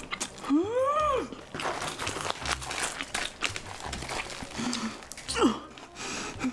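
Close-miked mukbang eating sounds: wet chewing with quick mouth clicks and a little crunch of fried batter as a giant cheese corn dog is eaten and its cheese pulled apart. About a second in comes a wordless 'ooh' that rises and falls in pitch, and a shorter falling vocal sound near the end.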